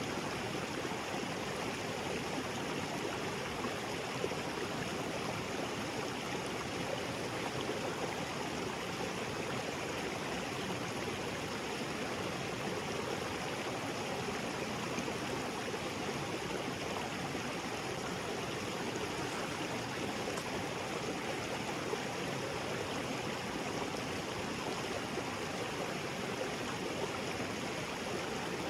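Small waterfall splashing into a rocky creek, a steady unbroken rush of falling and flowing water.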